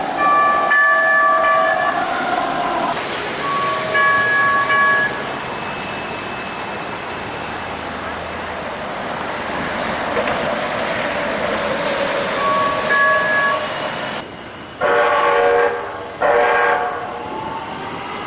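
A Los Angeles Metro Rail train sounds its horn in several short, steady blasts over the noise of the running train. Two louder, fuller horn blasts come near the end.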